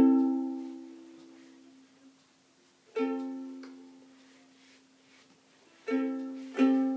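Chords strummed on an acoustic string instrument: a strum left to ring out and fade, a single strum about three seconds in, then a run of rhythmic strums starting near the end.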